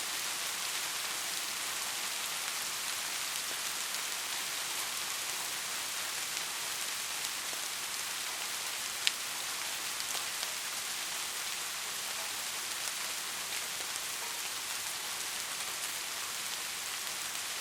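Steady rain falling, an even hiss with scattered drop ticks, and one sharper drop click about halfway through.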